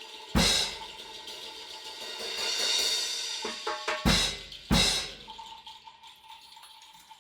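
Drum kit opening: a loud crash cymbal and bass drum hit about half a second in, then the cymbals swell, a few quick drum strikes follow, and two more loud crash-and-bass-drum accents ring out and fade.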